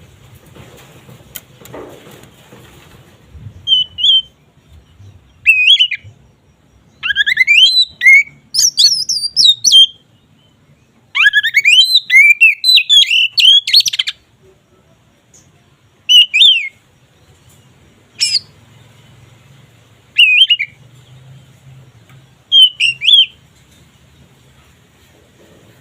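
Oriental magpie-robin (kacer) in loud full song ('ngeplong'): bursts of clear whistles and quick, varied warbling phrases, separated by short pauses. Two longer runs of song come in the middle.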